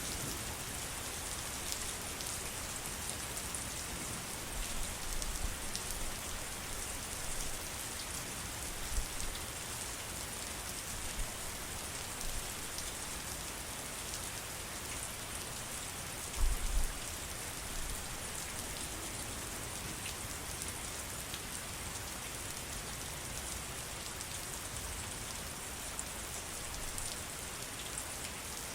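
Steady rain falling, a continuous even hiss with fine drip ticks, and a few soft low thumps, the biggest about halfway through.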